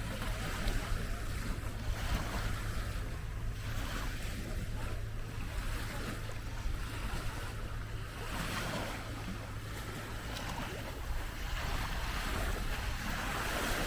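Small waves washing up on a beach, with wind rumbling on the microphone.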